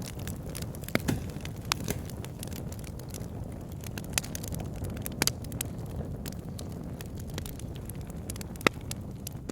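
Wood fire burning in a log burner: a steady low rumble of flames with irregular sharp crackles and pops from the logs. The loudest pop comes near the end.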